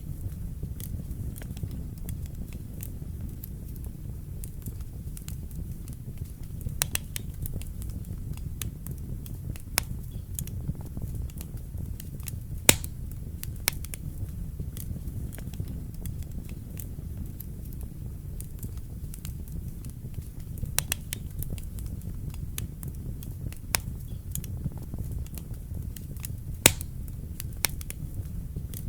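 Wood fire burning in a fireplace: a steady low rumble of flames with scattered sharp crackles and pops from the burning logs. The loudest pops come about halfway through and again near the end.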